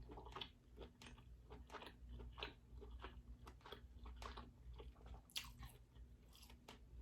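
Close-miked mouth sounds of chewing king crab meat: soft, irregular wet clicks and smacks, a few every second.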